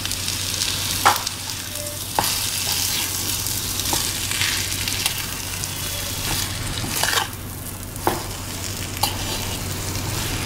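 Spiced potato-and-pea filling frying in oil in a steel pan with a steady sizzle, roasted while a steel spoon stirs and scrapes it. Several sharp clinks come as the spoon knocks the pan.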